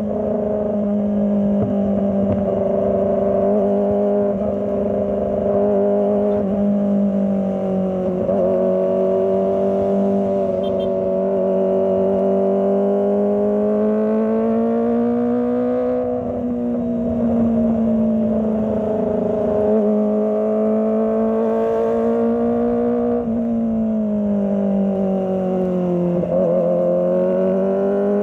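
Kawasaki ZX25R's 250 cc inline-four engine running at fairly steady revs, its pitch swelling and dipping gently every several seconds with the throttle.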